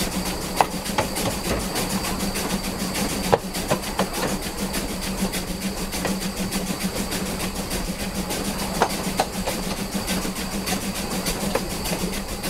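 Steam train rolling along the rails with a steady running hum. Sharp clicks of wheels over rail joints come every second or so at first, then more sparsely.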